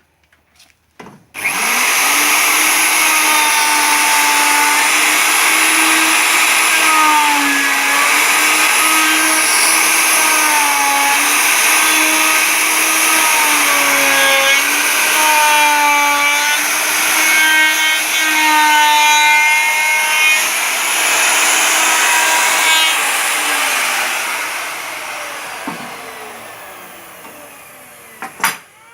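Electric power tool running against wood, its motor pitch dipping and recovering as it bites under load, then winding down near the end.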